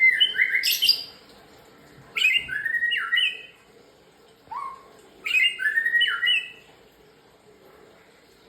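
A murai songbird singing: three short phrases of clear, whistled notes with quick pitch slides, plus a single lower note between the second and third phrases.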